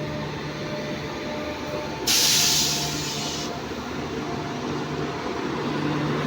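Indian Railways train running with a steady rumble and hum, cut into about two seconds in by a sudden loud hiss of air that lasts about a second and a half.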